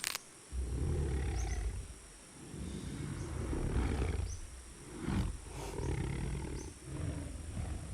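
Deep, rumbling animal roars in four long bouts, one after another, over a steady high insect drone with a few short bird chirps.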